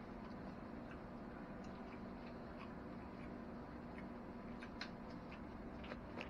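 A man chewing a bite of pan-fried crappie: faint, irregular clicks of chewing, over a steady low hum.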